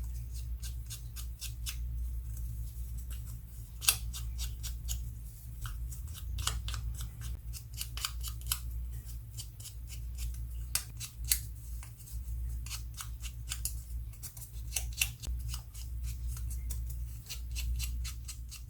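Paper crafting at a table: a long run of irregular crisp clicks and snips from tools working small pieces of paper, a few sharper ones standing out, over a steady low hum.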